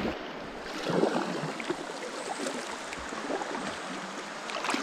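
River water gurgling and splashing around a kayak on the water.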